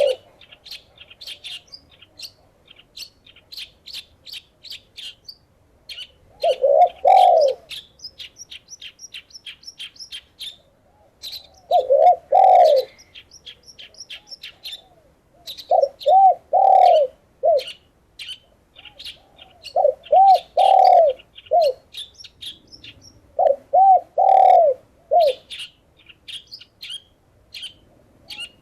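Doves cooing in phrases of a few arched notes, repeated about every four seconds, over a small songbird chirping rapidly and almost without pause in short high notes.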